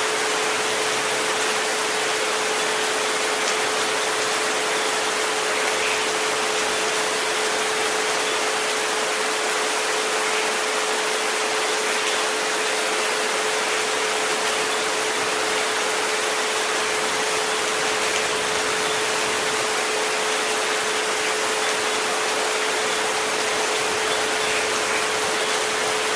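Steady rain sound, an even hiss with no breaks. A single pure tone at about 432 Hz is held underneath it without change.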